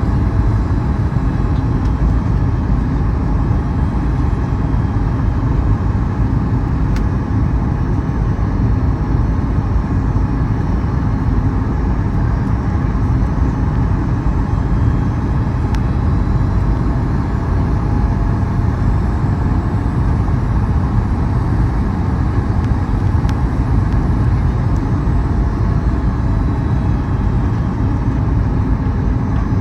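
Steady cabin noise inside a Boeing 737 MAX 8 airliner: an even, unchanging low rumble of airflow and engines.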